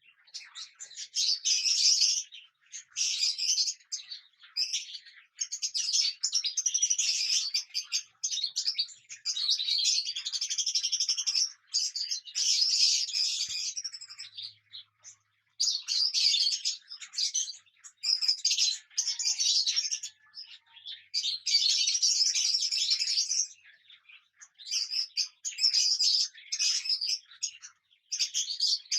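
Cockatiels chirping and chattering in busy bursts of a second or two, with short breaks between them.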